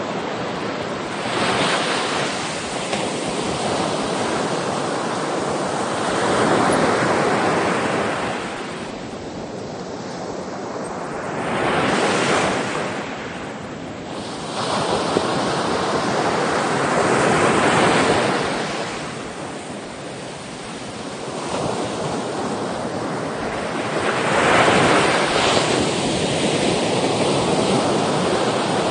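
Sea waves breaking on a shore, a rushing wash that swells and recedes every five seconds or so, with wind on the microphone.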